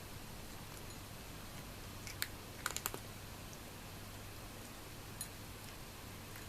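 A few light, sharp clicks, one about two seconds in, a quick cluster of three just after, and one more near five seconds, over a steady faint hiss and low hum.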